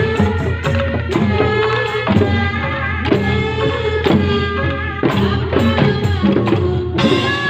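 Sundanese folk percussion music: kendang drums playing a busy, driving rhythm under a sustained, wavering melody line.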